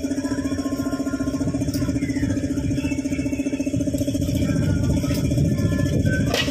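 An engine idling steadily with a fast, even pulse. A sharp click comes near the end.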